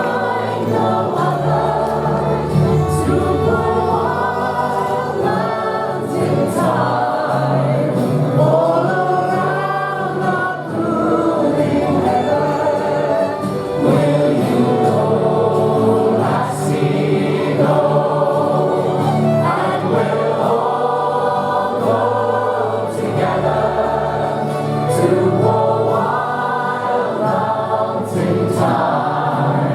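A crowd of voices singing together in a slow, sustained folk-song sing-along.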